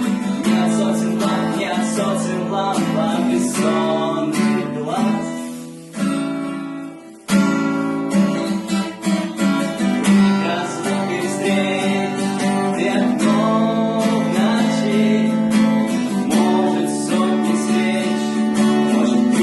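Acoustic guitar strummed as song accompaniment, with a voice singing over it at times. The music drops away briefly about six seconds in, then resumes.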